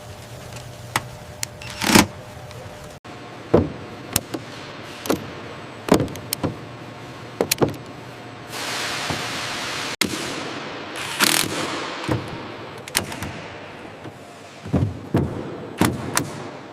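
Factory machinery sounds: sharp metallic knocks and clanks over a steady machine hum, with a burst of hissing air near the middle.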